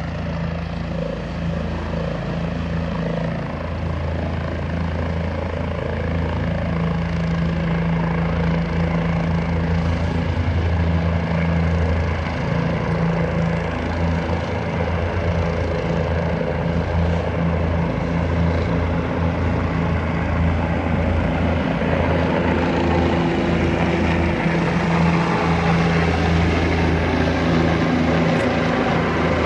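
Medical transport helicopter running with its rotor turning: a steady low drone with a rapid beat that grows slightly louder.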